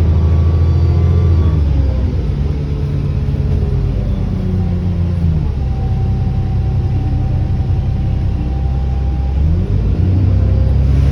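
ADL Enviro400 double-decker bus's diesel engine pulling under way, heard from inside the bus; the engine note drops about two seconds in and climbs again near the end. A thin turbocharger whine sounds over it for a few seconds in the middle.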